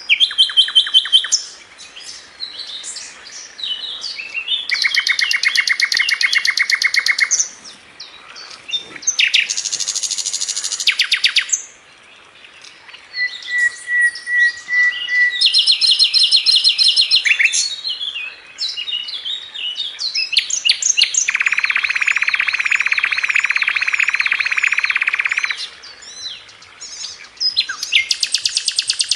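Sikatan londo flycatcher singing without pause: a string of fast, tight trills of rapidly repeated notes, some held for several seconds, broken by short chirps and whistled notes.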